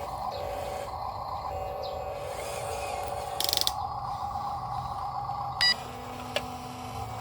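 Dump truck running with a steady mechanical whine and hum, a brief rattle about halfway through and one short electronic beep near the end.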